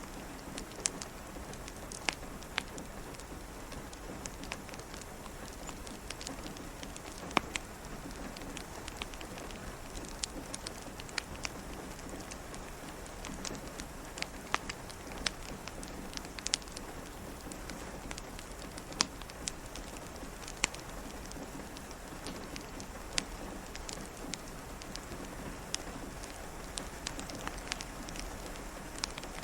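Steady rain pattering, mixed with the sharp, irregular pops and crackles of a wood fire in a fireplace.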